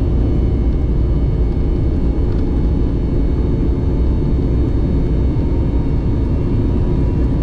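Steady cabin noise of an Embraer 190 airliner's GE CF34-10E turbofans under power: a deep rumble with a constant engine buzz of several steady tones, heard from inside the cabin.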